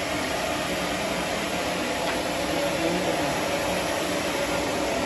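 Homemade bandsaw sawmill running, a steady even mechanical noise with a constant mid-pitched hum.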